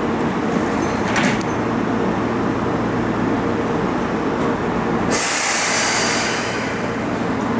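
Keihan electric train at the station, running with a steady hum, then a loud burst of compressed-air hiss from the air brakes about five seconds in, lasting over a second.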